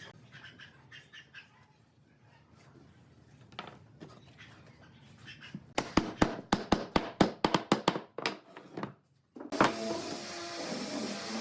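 A fast run of about fifteen sharp knocks, roughly six a second, lasting about two and a half seconds. After a short silence, a steady hissing noise with a low hum starts near the end.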